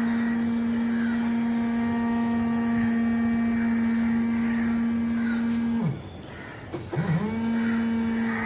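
A steady hum holding one pitch, which cuts out with a quick drop in pitch about six seconds in and starts up again about a second later.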